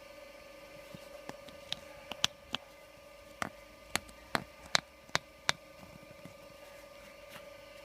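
Claes 213 saddler's sewing machine clicking: a scatter of sharp mechanical clicks, then about six evenly spaced ones, roughly two a second, over a steady faint hum.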